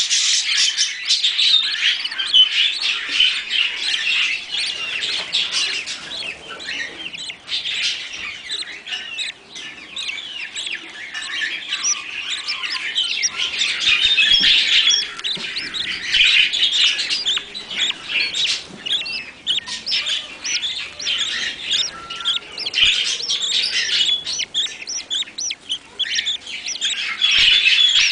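Budgerigars chirping and chattering: many short, overlapping chirps that rise and fall in waves.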